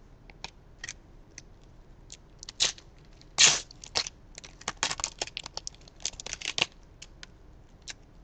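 A foil trading-card pack being torn open and the cards handled: a string of short rustles and crinkles, with the loudest tear about three and a half seconds in and a dense run of crinkling after it.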